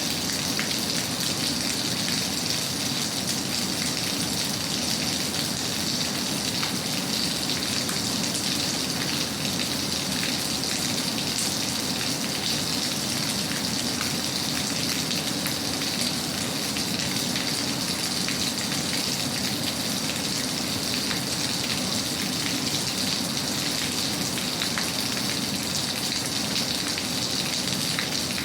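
Steady rain falling, an even hiss with fine drop ticks that does not change.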